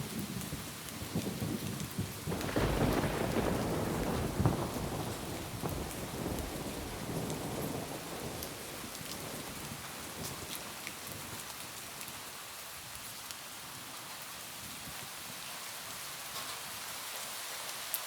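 Steady rain on a roof with a roll of thunder that swells a couple of seconds in and rumbles away over the next several seconds, leaving the rain alone, with occasional sharp drip ticks.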